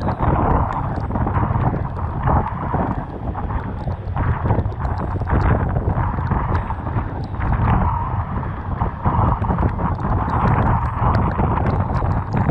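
Typhoon wind buffeting the microphone in a constant low rumble over the wash of a rough, storm-driven sea, with many small sharp ticks scattered throughout.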